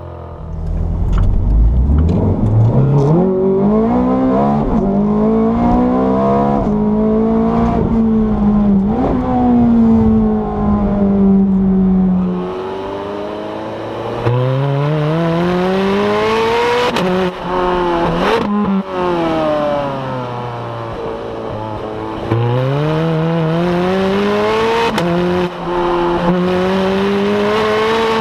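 Ferrari 430 Scuderia's V8 accelerating hard. Its pitch climbs through the revs and drops sharply at each quick upshift. Twice the level falls and the pitch sinks as the car slows, about twelve seconds in and again near twenty seconds, before it pulls again.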